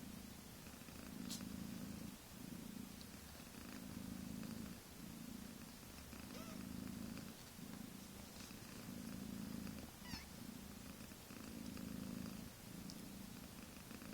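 Mother cat purring up a storm, a low purr that swells and breaks with each breath, about once a second, with a couple of faint high squeaks over it.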